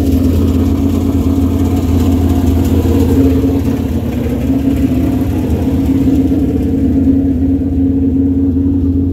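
An engine running at a steady speed: a loud, even, low drone that holds without change.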